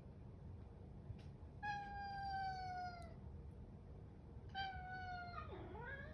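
A domestic cat meowing for its breakfast: two long meows, each sliding slowly down in pitch, the second ending in a quick dip and rise.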